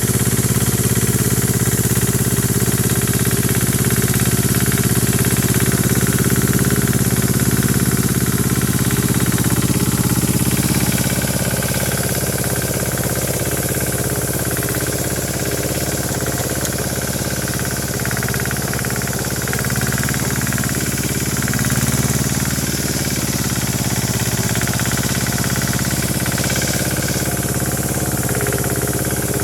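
Yağmur YET 510 rotary tiller's engine running steadily with a 'pat pat' beat. About ten seconds in the sound eases slightly and runs a little quieter from then on.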